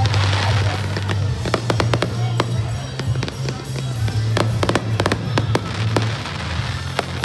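Fireworks going off: a run of sharp bangs and crackles, several coming in quick clusters, with music playing underneath.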